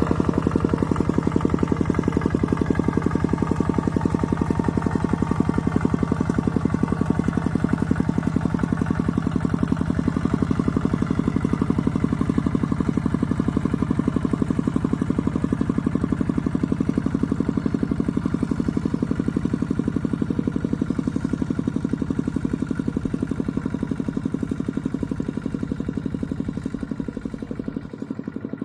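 Mini tractor's engine running steadily under load while plowing through mud, with a rapid, even firing beat; it fades a little near the end.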